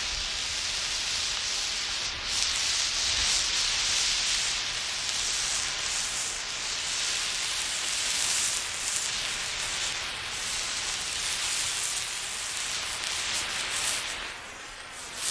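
Burning emergency road flare giving off a steady hiss whose level swells and fades as the flare is moved about, with a brief dip near the end.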